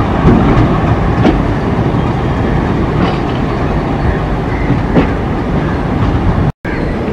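Train being shunted by an ALCo diesel locomotive rolling past: a loud, steady rumble of the rolling stock, with wheels clicking over rail joints every second or two. The sound cuts out for a moment near the end.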